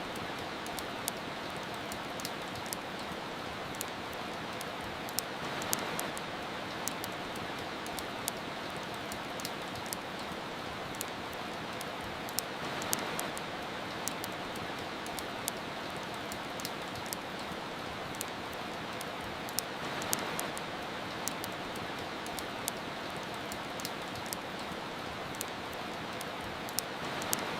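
Steady hiss of soft rain, with frequent sharp crackles and pops of a wood fire burning. The rain swells gently about every seven seconds.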